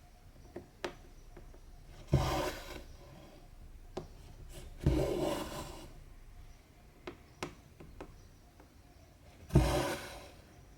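Two strands of cotton embroidery thread drawn through 14-count cross-stitch fabric in three rasping pulls, about 2, 5 and 9.5 seconds in, each starting sharply and fading. Small ticks of the needle piercing the fabric come between the pulls.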